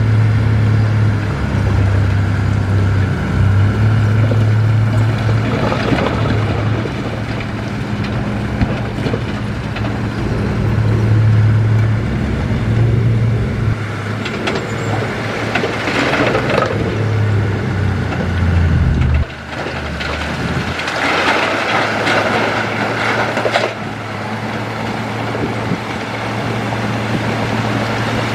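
Heavy diesel earthmoving machinery running steadily with a deep engine hum. The engine drops off suddenly about two-thirds of the way through and runs on more quietly. Several bursts of rushing, grinding noise come over it.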